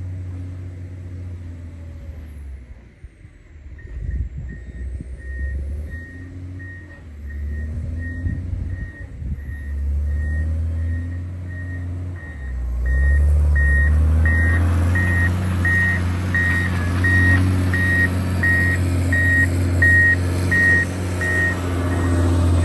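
John Deere 670GP motor grader's diesel engine running, with its reversing alarm beeping steadily from a few seconds in as the grader backs up. The engine pulls harder and louder about halfway through, and the beeps grow louder with it.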